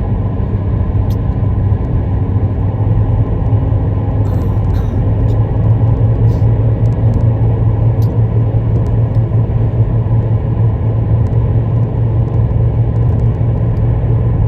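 A car travelling along the road: a steady low rumble of engine and road noise.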